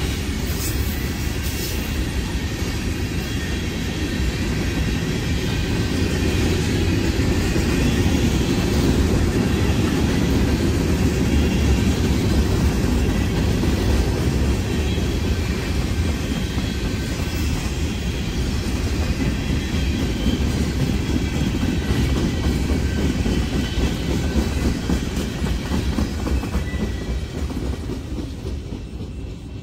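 Loaded freight cars of a CSX train rolling past close by: a steady, loud rumble of steel wheels on the rails, easing off near the end.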